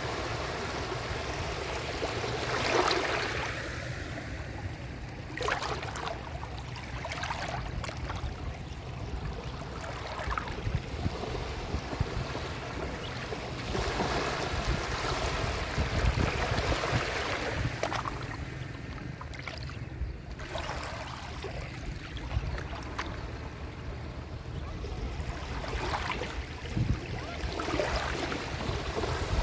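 Sea waves washing onto a shore: a continuous rush of surf with irregular louder splashes every few seconds over a steady low rumble.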